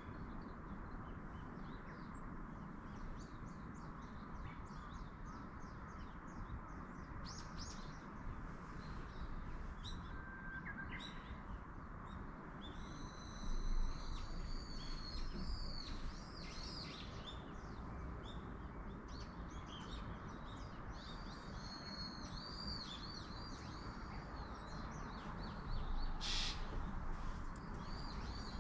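Wild songbirds chirping and calling again and again, short rising and falling calls with a louder one about halfway through, over a steady background hiss of the mountain air.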